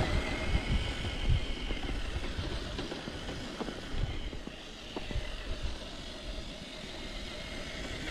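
Electric RC truck driving through snow: a faint, wavering motor whine over a low rumble, with a few small knocks from the chassis and wheels.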